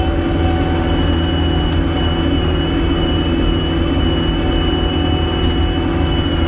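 Gehl 5625SX skid steer's engine running steadily, with a steady high whine over it.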